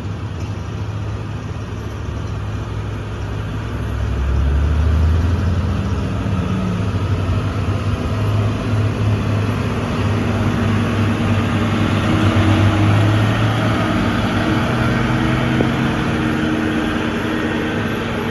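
Diesel truck engine pulling hard up a steep grade, a deep steady drone that grows louder about four seconds in.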